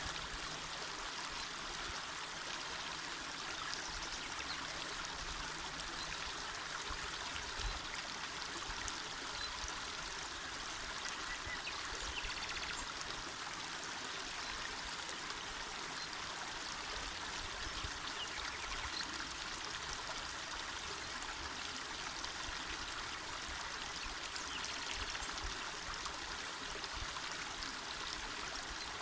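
Small mountain river flowing: a steady rush of running water, even and unbroken.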